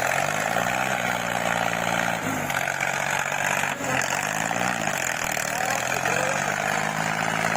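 Sonalika DI 50 tractor's diesel engine working under load. The revs climb near the start, drop about two seconds in, climb and fall back again around four seconds in, then run steady.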